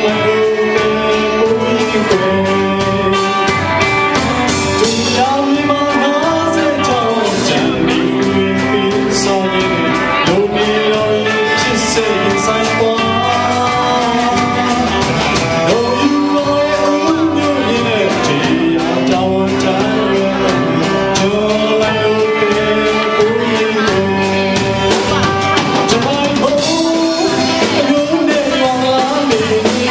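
Burmese song: a sung melody over full band accompaniment with a steady beat.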